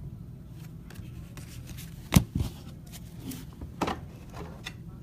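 Trading cards being handled and flipped through, with a few short sharp taps and clicks, the loudest about two seconds in, over a steady low hum.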